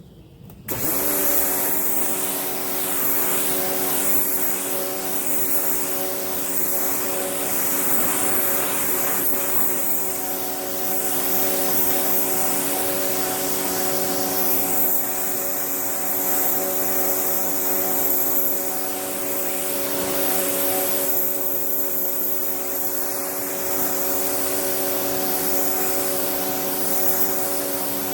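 Pressure washer starting abruptly about a second in, then running steadily: an even, multi-toned motor hum under a loud hiss of spray.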